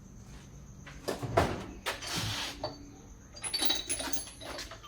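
Metal hand tools knocking and clinking as a socket set is rummaged for an extension bar: several separate knocks, then a cluster of bright ringing metal clinks near the end.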